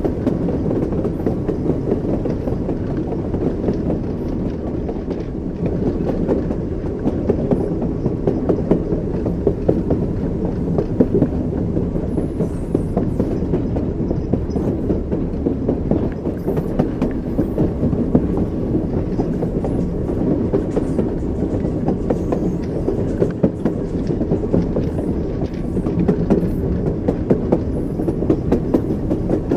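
Train wheels running on the rails: a steady low rumble with frequent, irregular small knocks.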